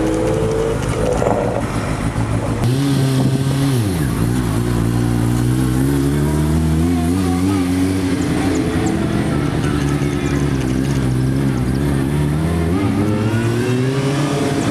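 Car engine and exhaust as a car pulls away. The engine note drops sharply about four seconds in, holds steady, then climbs slowly near the end as the car accelerates.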